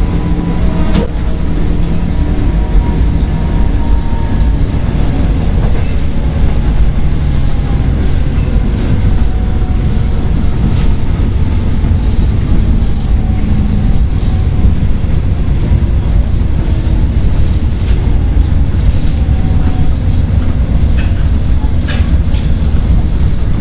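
Seoul Metro 1000 series resistor-controlled train running, heard from inside the car: a steady low rumble of wheels on rail with a motor and gear whine that slowly falls in pitch over the first several seconds. Sharp rail-joint clicks come about a second in and again near the end.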